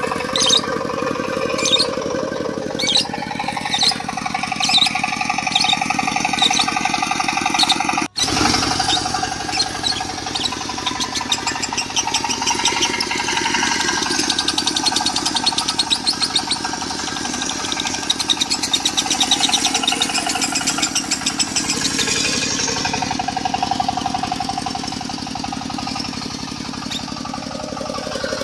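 A lovebird's konslet song, a long, fast chattering trill, over a diesel engine running steadily. For the first few seconds the bird gives separate high chirps about twice a second. After a brief cut about 8 s in, it breaks into a dense, rapid trill that lasts over ten seconds.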